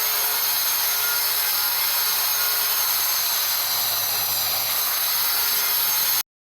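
A power tool working on wood, running steadily with a loud hissing noise and a faint high whine. It cuts off suddenly near the end.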